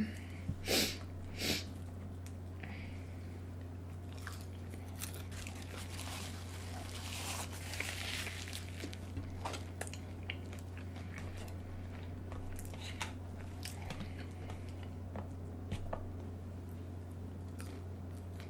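A person chewing and biting food close to the microphone, with small crunches and mouth clicks, a few louder bites in the first couple of seconds. A steady low hum runs underneath.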